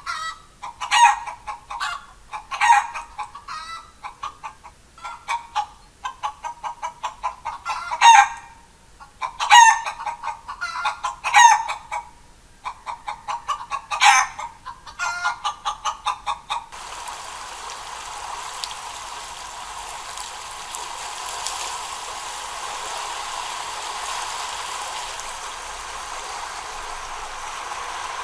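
Chickens clucking and calling in repeated short outbursts, with a few longer calls. About two-thirds of the way in the sound cuts abruptly to a steady hiss.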